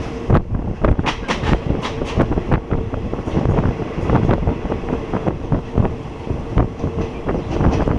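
Passenger train running along the track: a steady rumble of wheels and carriages, with irregular sharp clacks as the wheels pass over rail joints, and a faint steady hum.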